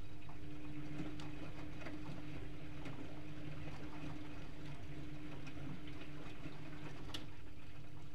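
Privileg Multispar 5110 washing machine partway through a 75 °C boil wash: water sloshing inside with a steady hum and a few light clicks.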